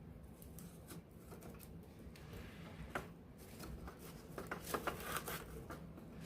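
Wood campfire crackling softly, with a sharp pop about three seconds in and a quick run of crackles near five seconds.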